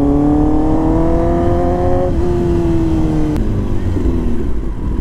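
Kawasaki ZX-10R's inline-four engine pulling in second gear, its note rising slowly, then falling after about two seconds as the throttle is closed and the bike slows. The pitch drops lower again a little after three seconds, over a low rumble of wind noise.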